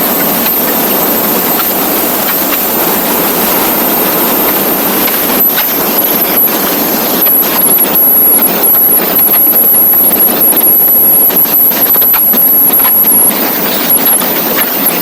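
Loud, steady wind rush and road noise on a moving motorcycle, picked up by a rider-mounted microphone. About halfway through it turns gusty and fluttering.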